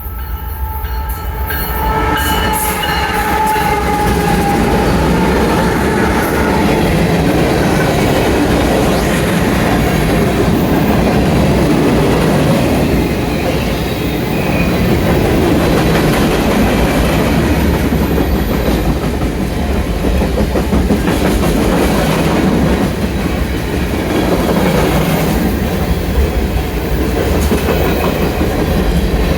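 CSX freight train rolling past, a steady rumble and clatter of its cars over the rails. A high pitched tone sounds at the start and fades over the first few seconds.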